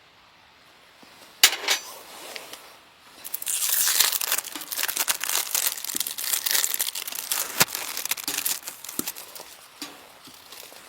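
Crinkly material being handled and crumpled: one sharp crackle about a second and a half in, then about six seconds of dense crinkling with a sharp snap partway through.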